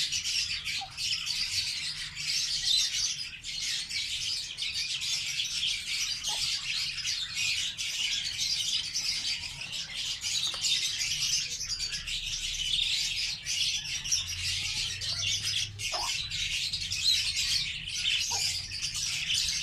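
A flock of pet lovebirds chattering: a dense, continuous mass of high-pitched chirps and tweets, with a few shorter, lower calls now and then.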